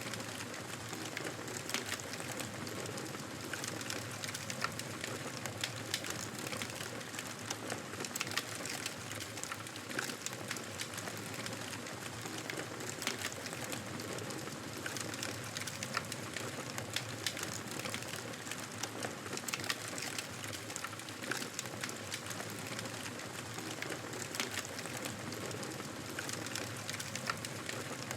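Wood fire crackling in a fireplace: a steady hiss with frequent, irregular pops and snaps.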